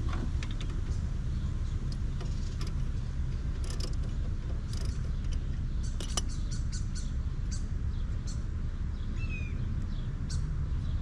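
Scattered light clicks and clinks of hand tools on metal during front brake work, over a steady low rumble. There is a brief high chirp about nine seconds in.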